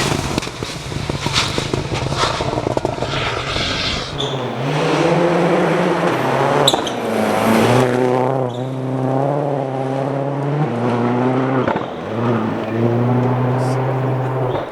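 Rally car engines at speed. For the first few seconds there is a noisy rush broken by sharp cracks. From about four seconds in, one engine note under load rises and drops in steps as the driver shifts gears.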